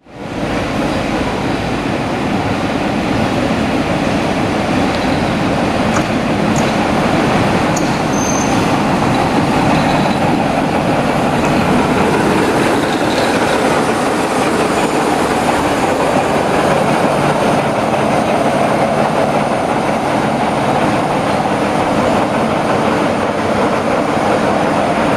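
Train rolling along the rails: a steady, loud rumble of wheels and running gear, with a few brief faint wheel squeals around seven to eight seconds in.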